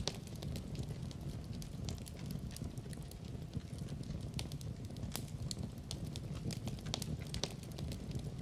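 Wood fire burning in a fireplace: a steady low rush of flames with frequent irregular crackles and sharp pops.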